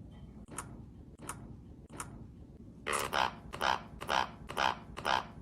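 A pet parrot calling in a rhythmic series of loud, repeated calls, about two a second, starting about three seconds in. Three sharp clicks come before them.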